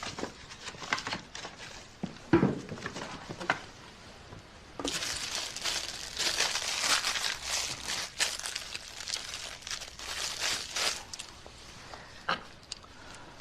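A few light knocks, then from about five seconds in some six seconds of packaging being handled and crinkled.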